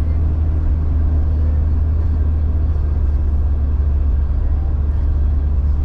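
1999 Jeep Cherokee XJ running with a steady, unchanging low rumble.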